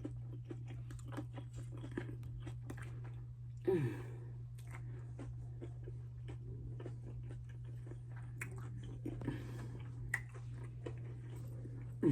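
Close-miked chewing and crunching of a fried chicken sandwich and fries, with many short wet mouth clicks and smacks. A steady low hum lies underneath, and a short vocal sound with falling pitch comes about four seconds in.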